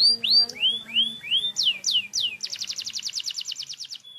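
Domestic canary singing: a string of quick falling whistled notes and a few rising ones, then a little past halfway a rapid, even trill, ending in a short held note.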